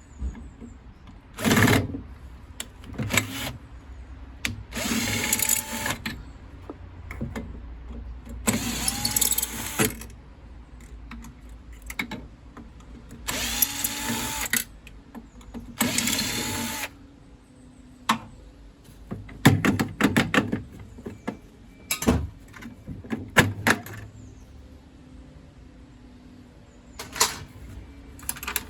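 Cordless drill-driver run in several short bursts of about a second each, its motor pitch rising as it spins up, as screws are driven out of boiler parts. Sharp clicks and knocks of metal parts being handled follow in the second half.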